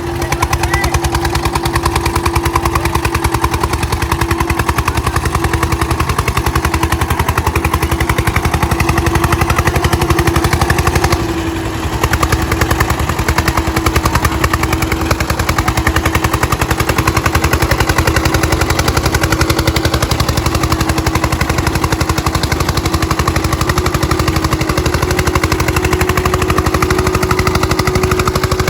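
Eicher 241 tractors' single-cylinder diesel engines running hard under full load, a rapid, steady exhaust chatter with a steady whine underneath, easing briefly about eleven seconds in.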